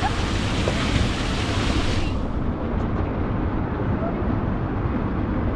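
Rushing water and wind buffeting the microphone on a fast ride down a water slide. The bright hiss cuts off about two seconds in, leaving a duller rumble.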